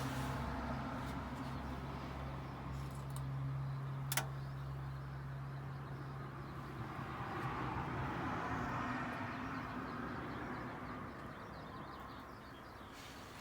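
An engine running steadily, its low hum fading away between about four and seven seconds in, with a single sharp click about four seconds in.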